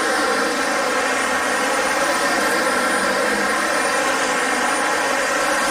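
Upright vacuum cleaner running steadily on carpet, a loud even motor whine with airflow hiss.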